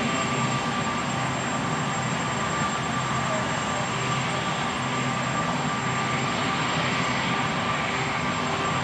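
Marine One helicopter's turbine engines and rotor running steadily, with a constant high whine over the rotor noise.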